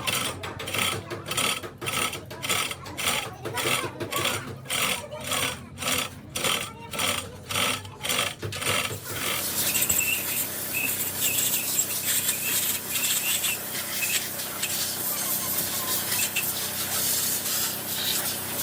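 Rhythmic hand scraping on metal, about two strokes a second. About nine seconds in it gives way to a steady hiss.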